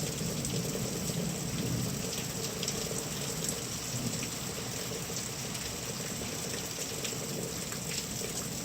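Steady rain falling during a thunderstorm, with a low rumble of thunder dying away in the first two seconds.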